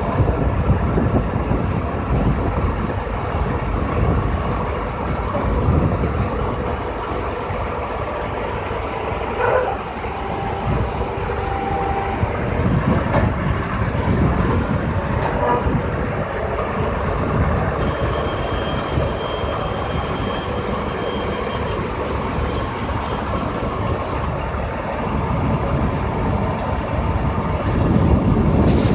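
Truck crane's engine running steadily, a dense low rumble with faint steady whining tones above it.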